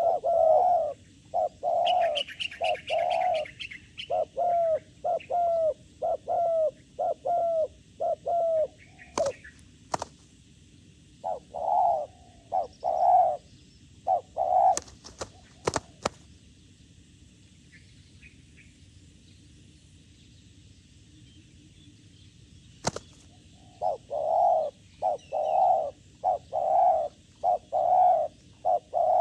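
Doves cooing in repeated short phrases, with a quick run of high chirps early on. A few sharp claps come about ten and fifteen seconds in, then a lull of several seconds before steady cooing starts again.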